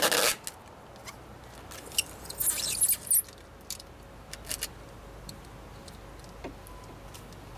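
Clear tape being pulled off the roll in quick rasping tears, one right at the start and a longer crackly one about two and a half seconds in, then scattered small clicks and taps as it is pressed onto the window glass and door.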